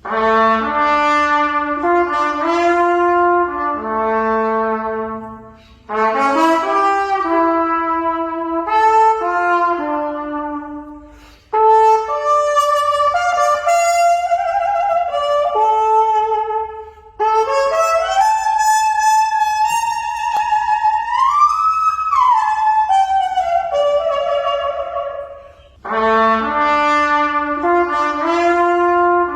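Trumpet playing a melody in phrases of a few seconds each, with short breaks between them; in one phrase past the middle the pitch slides up and back down.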